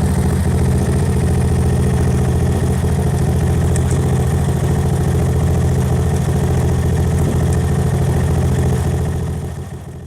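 Motorcycle engine idling steadily, fading out near the end.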